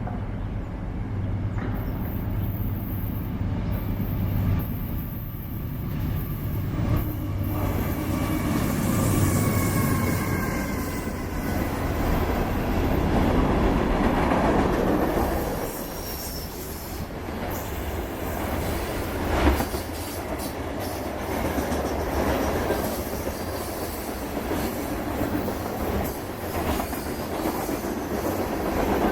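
Diesel-hauled freight train passing: the locomotive's engine drone for the first third, then freight cars rolling by with brief wheel squeal and clickety-clack over the rail joints, and one sharp loud clank about two-thirds through.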